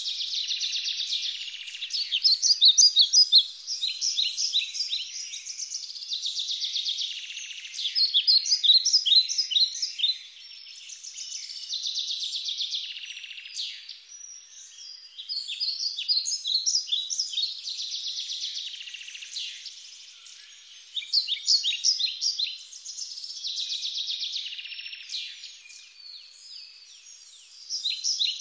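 Small birds chirping and trilling in quick, many-noted phrases, in bouts that swell and fade every few seconds, with nothing low beneath them.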